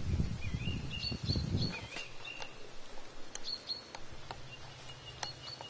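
Small birds chirping and whistling again and again, short high notes mixed with wavering whistled calls. A low rustling noise runs under them for about the first two seconds.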